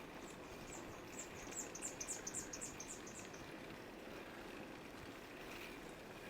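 Steady wind and riding noise, with a run of about a dozen short, high chirps in the first half that grow louder and then fade.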